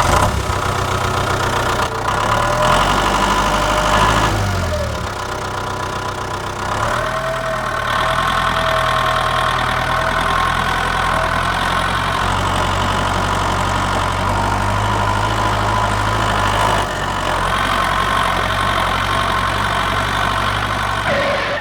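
Small motor of a miniature DIY machine running steadily with a mechanical hum, its pitch sliding briefly a few times and its level dipping about four seconds in.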